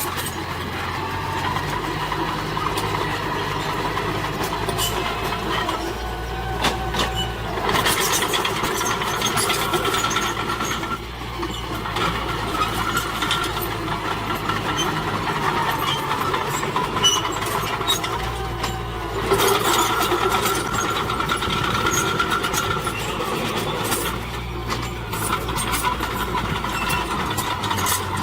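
Heavy diesel earthmoving machinery running: a dump truck and bulldozer engine drone, surging twice, with scattered clanks and rattles.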